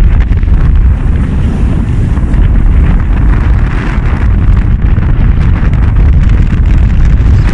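Strong wind buffeting the microphone aboard a sailing yacht under way: a loud, steady, rumbling rush.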